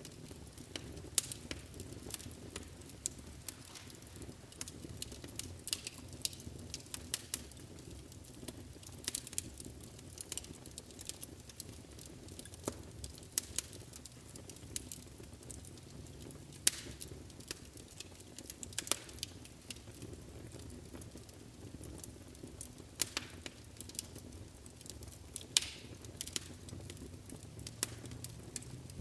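Wood fire burning in a fireplace: a soft steady rumble of flames with frequent sharp, irregular crackles and pops.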